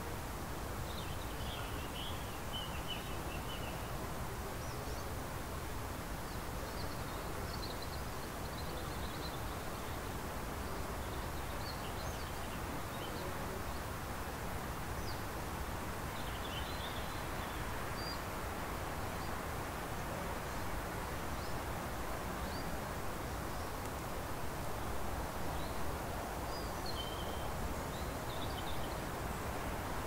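Small birds chirping here and there, with short high calls in scattered clusters, over a steady rushing background.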